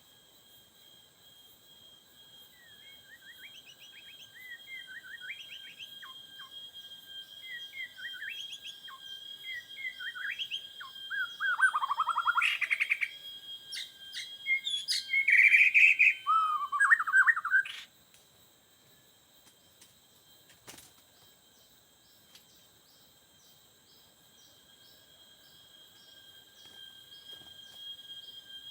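White-rumped shama (murai batu) singing: a run of short, varied whistled phrases that build in loudness over the first eighteen seconds. Two loud, dense chattering bursts come near the middle, and then the singing stops abruptly. A steady high-pitched whine continues underneath.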